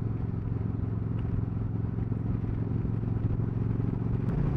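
Suzuki Marauder cruiser's engine running steadily at low revs, its exhaust note rising as the throttle opens near the end.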